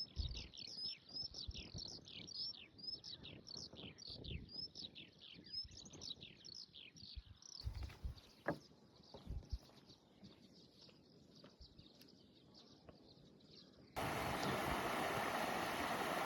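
A songbird calls in a fast series of high, downward-slurred chirps for about the first half, over scattered low thumps. About two seconds before the end, the steady rush of a small mountain stream comes in abruptly.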